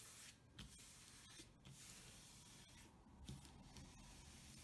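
Near silence, with faint soft rustles and a few light ticks of a diamond painting canvas and its cover paper being handled.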